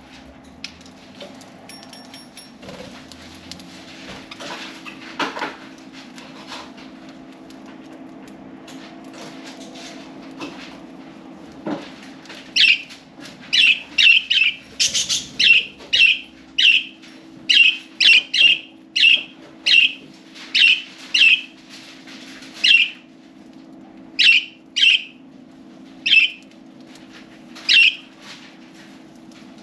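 Budgerigar calls: loud, short, sharp chirps repeated one or two a second, starting about twelve seconds in and stopping near the end, over a steady low hum. Before the calling, only faint scattered rustles and small knocks.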